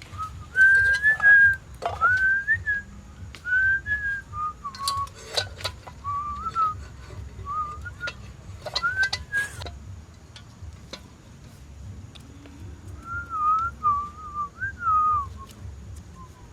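A person whistling a wandering tune in short phrases of gliding notes, with a pause of a few seconds before it resumes, over scattered sharp clicks and knocks.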